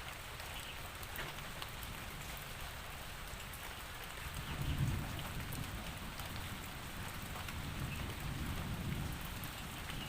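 Steady rain falling, with fine drop ticks in the hiss. About four and a half seconds in, a low rumble of distant thunder swells up and keeps rolling.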